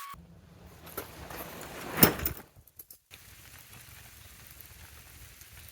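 Hail and rain pattering steadily, with one loud sudden noise about two seconds in.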